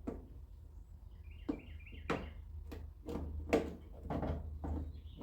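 Scattered short clicks and knocks as a '57 Chevy Bel Air's outer door handle, its screw and rubber gasket are handled and fitted against the door, over a steady low hum.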